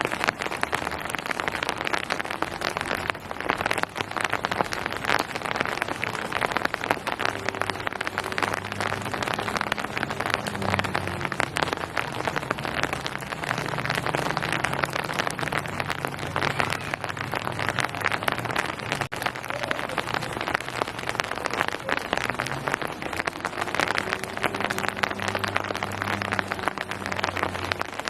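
Steady rain pattering on surfaces: a dense, even hiss of countless drop impacts. A faint low hum runs underneath and comes and goes.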